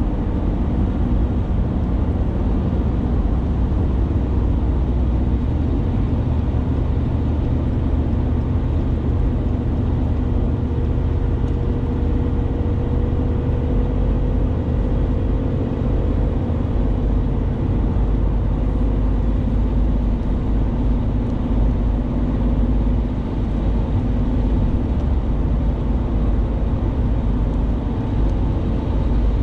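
Steady road and engine noise inside a moving vehicle's cabin, a constant low rumble with a faint drifting hum.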